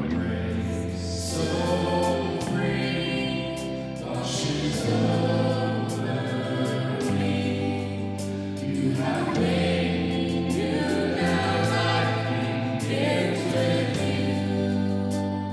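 Worship music: a band plays sustained chords over bass notes that change every two or three seconds, with voices singing along.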